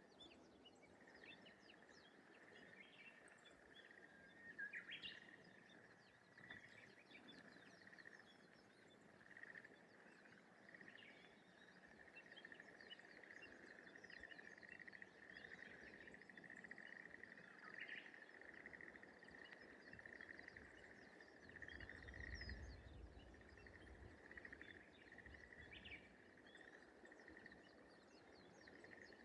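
Faint rice-paddy ambience: a continuous rapid trilling chorus held at one pitch from a frog or insect, with many short, scattered bird chirps over it. A low rumble swells and fades about two-thirds of the way through.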